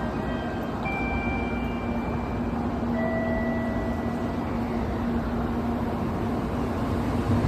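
Shinkansen high-speed train running with a steady rumble and a constant low hum, a few short high tones sounding over it.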